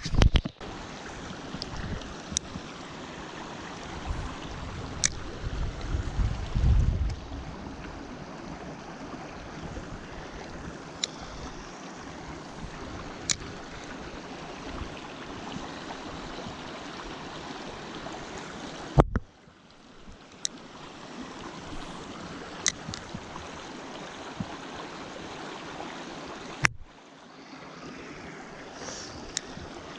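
Steady rushing of a small mountain creek, with scattered sharp clicks and some low bumps of wind or handling on the microphone about four to seven seconds in. The water sound drops away suddenly twice, near two-thirds of the way through and again near the end.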